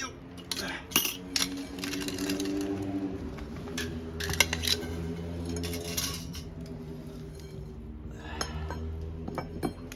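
Metal clanks and clinks of heavy metal cookware or grill parts being handled and set in place, scattered knocks throughout, over a steady low hum.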